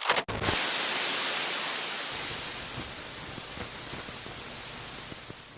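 Steady static-like hiss after a few clicks at the start, slowly fading and then cutting off.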